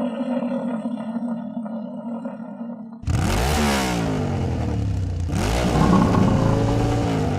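Engine of a Bisonte BTA-12SDE 12 hp walk-behind rotary tiller running steadily. About three seconds in it turns suddenly louder and rougher, its engine speed falling and rising twice, with clatter.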